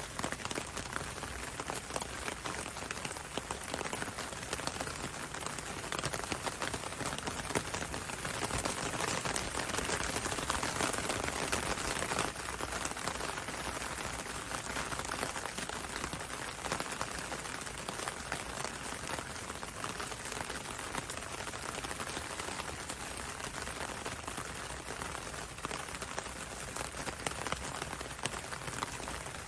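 Steady rain falling on a window and a road: a dense hiss full of small drop ticks, swelling slightly about a third of the way in.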